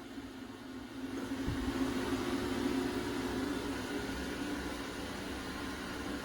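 Electric exhaust fan running: a steady motor hum with a low tone and rushing air, getting a little louder about a second in.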